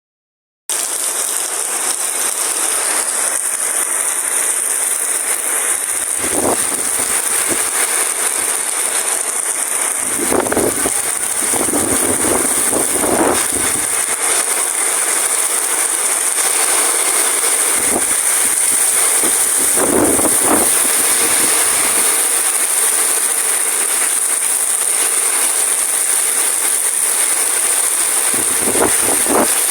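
Heavy rain pouring down steadily, with several brief louder surges of gusting wind.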